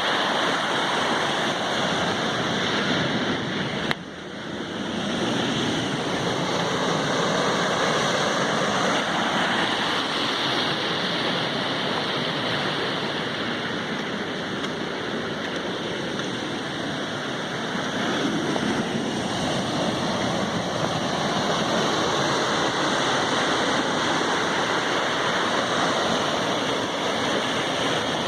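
Sea waves washing steadily onto the shore. The level drops suddenly about four seconds in and builds back up over a couple of seconds.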